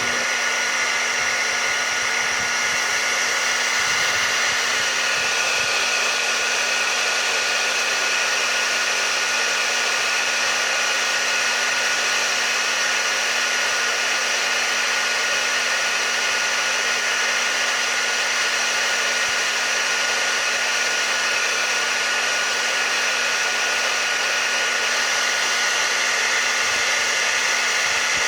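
Electric hair dryer running steadily: an unchanging rushing hiss with a constant motor whine.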